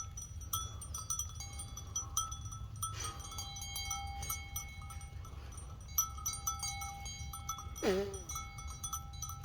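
Small metal bells ringing on and off in several overlapping tones, each struck sharply and left to ring, over a low steady rumble. About eight seconds in there is one short call that falls in pitch.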